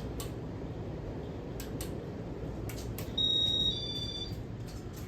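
Casablanca Four Seasons ceiling fan running on high speed, a steady whooshing hum of motor and blades. A few light clicks fall in the first three seconds, and a short two-part electronic beep sounds about three seconds in.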